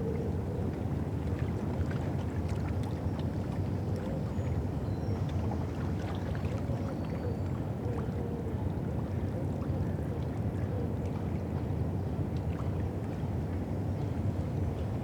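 River ambience on the Thames: a steady low rumble, typical of a boat engine out on the river, with a faint wavering tone and small scattered ticks.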